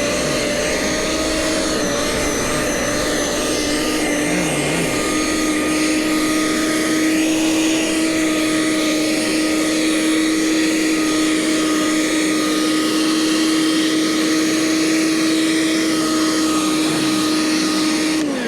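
Gasoline snowblower engine running at a steady high speed, then shut off near the end, its pitch sliding down as it winds down.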